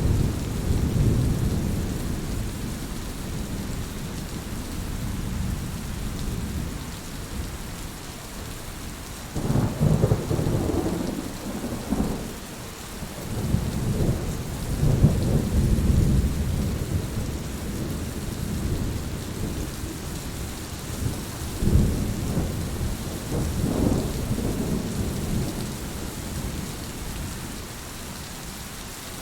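Steady rain with thunder rumbling low beneath it, swelling into several louder rolls of thunder through the middle and later part.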